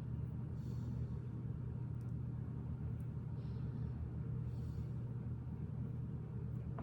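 Steady low hum, with a few faint soft rustles and light clicks of plastic Lego pieces being handled.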